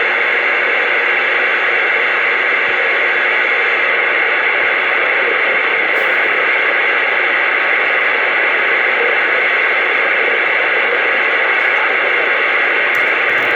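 Steady, loud static hiss from a CB radio receiver with no voice on the channel, band-limited like radio audio and unchanging throughout.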